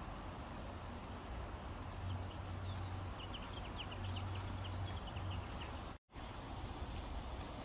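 Steady low hum and hiss, with a quick run of small bird chirps about three seconds in. The sound cuts out for a split second about six seconds in.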